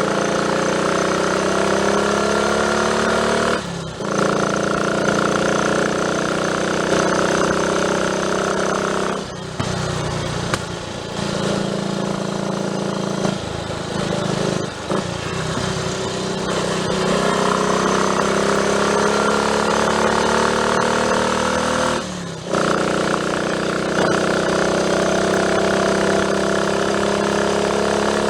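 Triumph Tiger Cub's 199 cc single-cylinder four-stroke engine pulling under way. Its pitch climbs steadily several times, each climb broken by a brief dip where the throttle shuts for a gear change.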